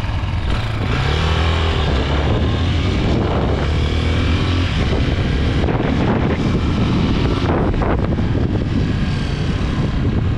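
Chinese 250cc street-legal dirt bike engine running under way, rising in pitch twice as it speeds up, with a constant rushing noise.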